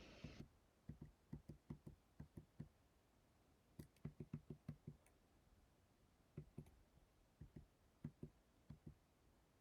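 Faint, low-pitched knocking in rapid irregular runs: about ten knocks in the first three seconds, a tight burst of eight around four to five seconds in, then scattered pairs and a few single knocks to the end. A steady hiss cuts off just after the start.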